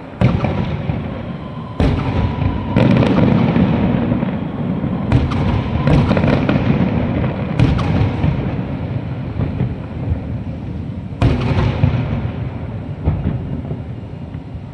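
Aerial fireworks going off: a string of sharp bangs, about seven, spaced irregularly, over continuous rumbling and crackling, with the last big bang about eleven seconds in.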